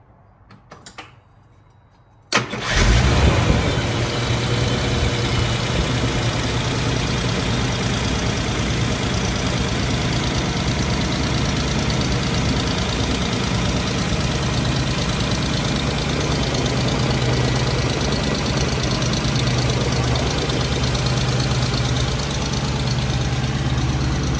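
Mercedes-Benz 300SEL 6.3's M100 6.3-litre V8 starting about two seconds in, catching suddenly, then running steadily at idle through a custom straight 3-inch exhaust. Under the exhaust note there is an oddly mechanical noise that does not sound right.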